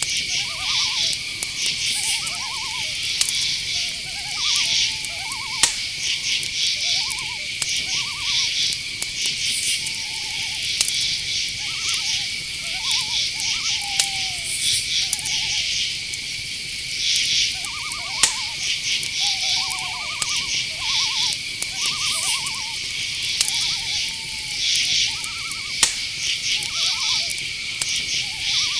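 Night insect chorus: crickets trilling steadily, with pulsing higher insect buzzes coming and going. Over it, many short chirping calls at a middling pitch, some gliding, keep overlapping throughout, and there are occasional sharp clicks.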